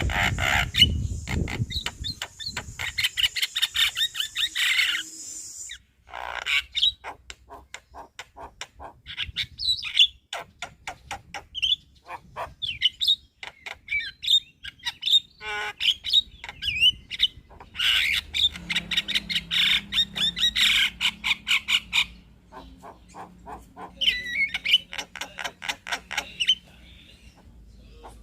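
Javan myna (jalak kebo) singing a long, busy chattering song: rapid runs of clicks and harsh notes mixed with short whistled phrases. It breaks off briefly about six seconds in.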